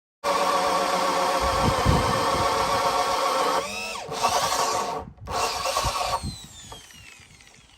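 Power drill motor running with a steady whine, then winding down about three and a half seconds in. It is run again in short bursts that trail off near the end.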